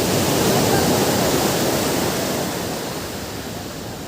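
Ocean surf washing onto a beach: a wave's rush of foam that swells over the first second or so and then slowly fades.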